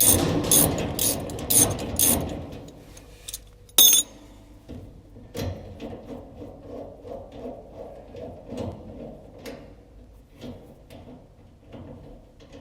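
Handling clatter, a sharp click about four seconds in, then a long run of small clicks from a hand tool loosening the screws that hold the 220-volt power cord wires on the electric dryer.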